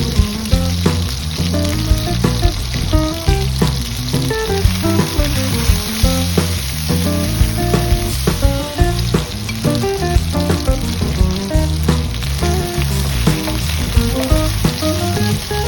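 Food frying and sizzling in hot oil as it is stirred in the pan, under background music with a plucked-sounding melody and bass line.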